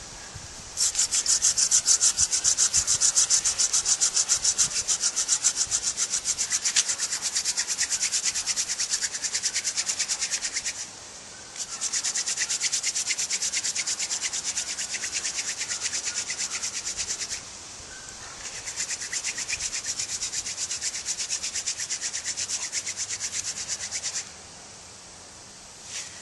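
Hand-drill friction fire: a staghorn sumac spindle spun back and forth between the palms, grinding into a trumpet creeper hearth board with a fast, even scraping rhythm. It comes in three long bouts, with two short breaks.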